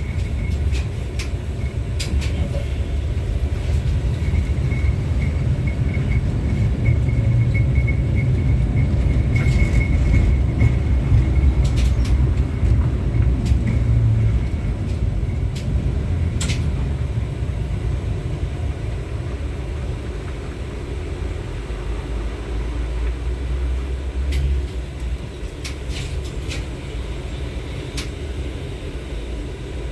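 Interior of an LVS-86K articulated tram running along the track: a steady low rumble from the wheels and running gear, with scattered sharp clicks and knocks from the rails. A thin high whistle comes and goes in the first half, and the rumble is loudest about a third of the way in, then eases off.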